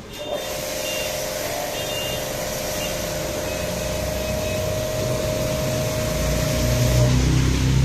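Steady hiss of spraying water with a steady whine over it; the whine stops about seven seconds in and a lower hum takes over.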